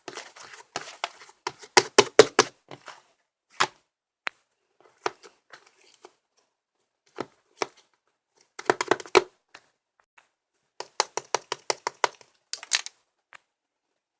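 Slime being squished and poked by hand, giving sharp popping clicks in irregular bunches with pauses between. The clicks stop near the end.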